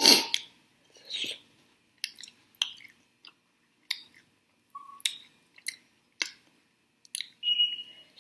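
Close-miked chewing of chicken wings: sharp wet mouth clicks and smacks every half second to a second, with a louder burst of noise right at the start.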